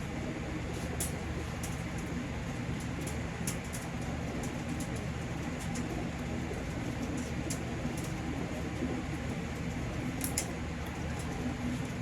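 Steady low mechanical hum, like a fan or motor running, with scattered light clicks and taps from handling.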